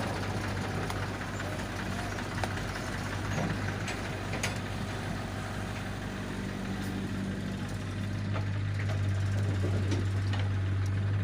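Diesel engine running steadily at idle with a low hum, a few light clicks over it, and growing a little louder about eight seconds in.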